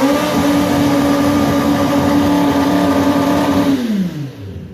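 Motorcycle engine revved and held at high revs, a steady high note, then the revs dropping back toward idle about four seconds in.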